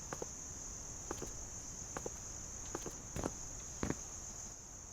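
Crickets trilling steadily in a continuous high-pitched chorus, with about six soft, irregularly spaced steps or knocks.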